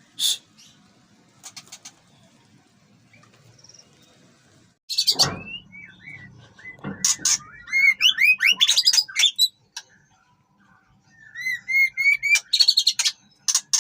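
White-rumped shama singing in bursts of rising whistled notes and fast chattering phrases, with a loud harsh note about five seconds in and a short pause in the middle.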